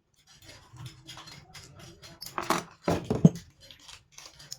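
Irregular light clicks and scrapes of small metal parts and tools being handled, with a louder clatter of knocks about two and a half to three seconds in.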